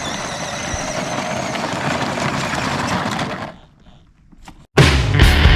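Tractor engine running steadily. It cuts off after about three and a half seconds, and loud rock music starts near the end.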